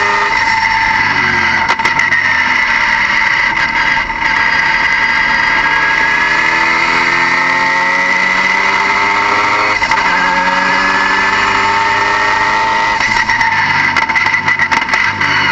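Car engine running, its revs rising and falling repeatedly, with a loud steady high-pitched whine that does not change with the revs.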